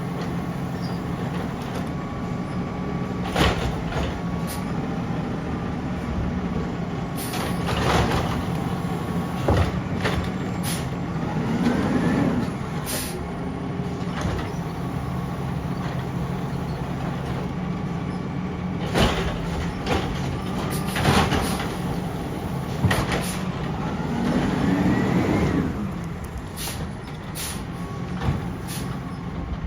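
Garbage truck working: its diesel engine runs steadily while its hydraulics and metal parts clank and knock at intervals, and a rising whine comes twice, with air brake hiss.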